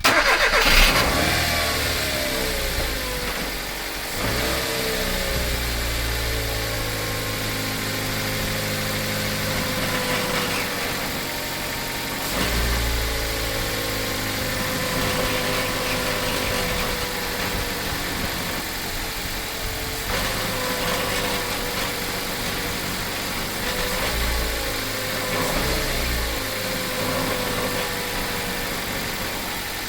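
Mitsubishi Colt CZ3 1.3 petrol engine idling and blipped several times, with a clicking noise that comes from a loose exhaust heat shield behind the engine rather than from the engine itself.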